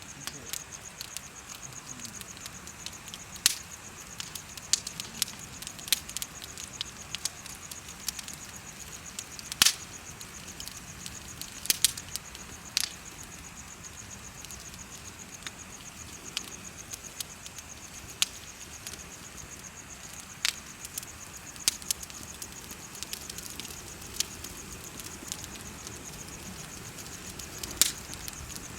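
Wood bonfire crackling, with irregular sharp pops, a few much louder than the rest. Insects chirp in a steady high trill underneath.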